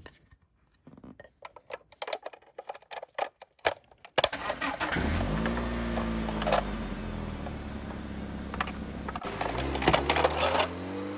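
A few light clicks and taps, then about four seconds in a car engine sound starts abruptly and runs at a steady idle, revving up in pitch twice.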